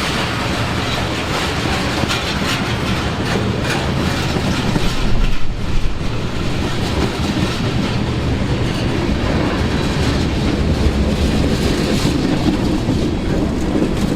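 A train passing close by: the steady rumble of rail cars with wheels clicking over the rail joints.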